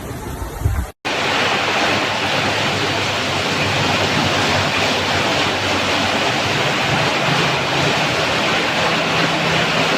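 Heavy rain pouring down steadily as a dense, even rush of noise, starting after a sudden cut about a second in.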